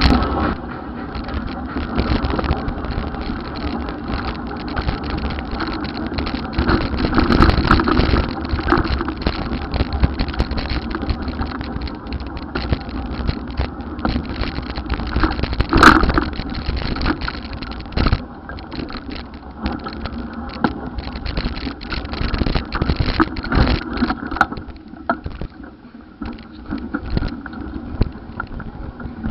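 Wind buffeting the microphone and road traffic noise during a ride on an electric bicycle, with a brief louder, higher tone about sixteen seconds in. The sound grows quieter near the end.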